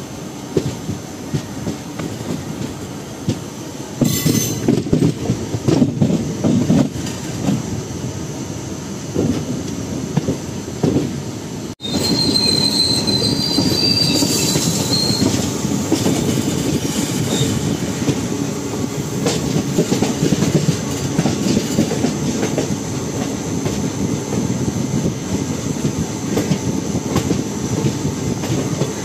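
Express passenger train running on the track, with steady rolling and rattling of coaches and wheels. A high wheel squeal lasts a few seconds about halfway through, just after the sound cuts out for an instant.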